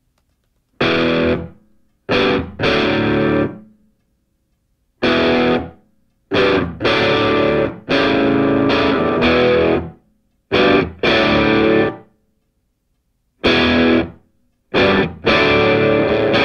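Music: distorted electric guitar playing chords in a stop-start riff, each blast of about half a second to two seconds cut off abruptly by silence.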